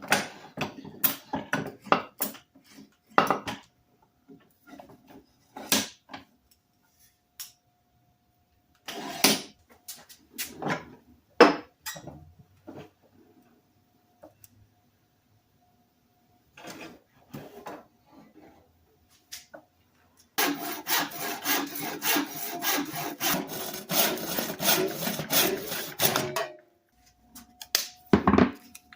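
Scattered knocks and clatter of tools and wooden handles being handled. Then, about twenty seconds in, a hand saw cuts through a wooden hammer handle in quick, even strokes for about six seconds.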